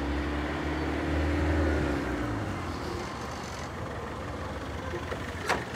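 A motor vehicle's engine running close by, swelling about a second and a half in and then easing off, with one sharp click near the end.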